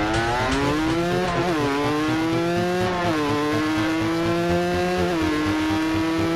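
Cagiva Mito 125's single-cylinder two-stroke engine accelerating through the gears. Its pitch climbs and drops back at three upshifts, then holds nearly steady near the end.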